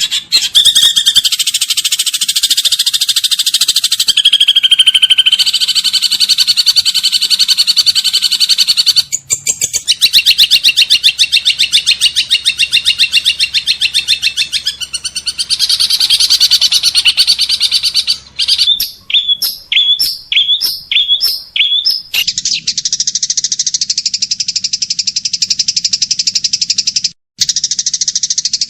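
Recorded songbird song played back-to-back: long rapid trills and warbles that change abruptly at several edits, a stretch of separate chirps about two a second, then a steady fast buzzing trill near the end.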